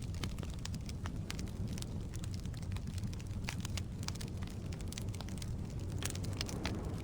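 Firewood burning in a fireplace: a steady low rumble of flames with frequent irregular crackles and pops from the logs.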